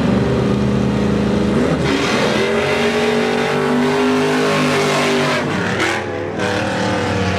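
Drag-racing car engine running loudly under hard acceleration, its tone shifting about two seconds in and dipping briefly near the end.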